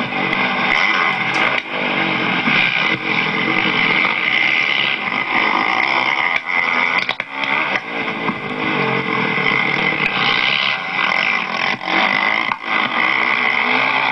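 Motocross bike engine running hard at high revs under racing throttle, distorted and mixed with wind rush. The engine note drops briefly a few times, in the middle and near the end.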